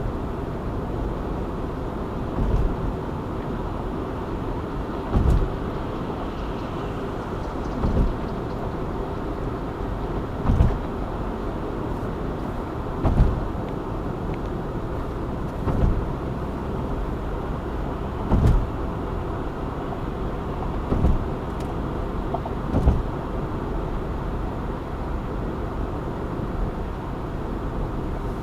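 Steady road and engine noise of a car driving, heard from inside the cabin. A short thump comes about every two and a half seconds until near the end.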